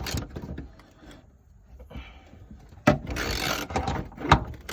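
Hand-tool work under a truck: a short rasping burst about three seconds in, then a single sharp knock a second later.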